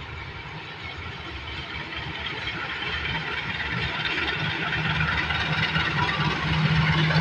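Diesel train locomotive's engine running and growing steadily louder as the train pulls into the station, with a low steady hum coming up strongly in the second half.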